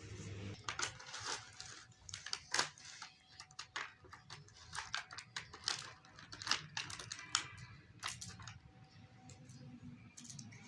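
Irregular clicks and short rustles of toy train set parts and packaging being handled, quieter for the last couple of seconds.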